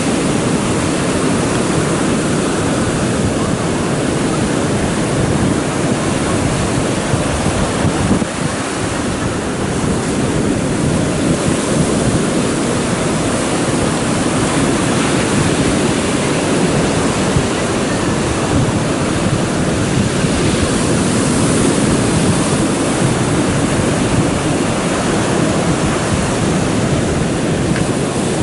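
Stormy sea surf: waves breaking continuously and loudly, with wind buffeting the microphone.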